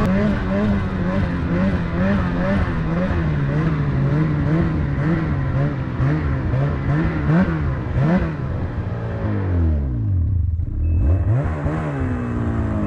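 Snowmobile engine revving under load, its pitch surging up and down about twice a second. About ten seconds in the revs drop steeply, then pick up again. Near the end a short high beep repeats at a steady pace.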